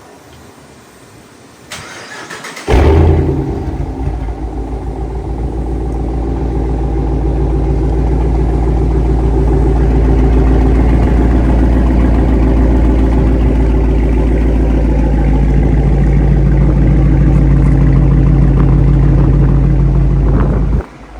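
A Dodge Charger's Hemi V8 is cranked by the starter and catches about three seconds in with a loud flare, typical of a cold start. It then settles into a steady, deep-running idle that cuts off suddenly near the end.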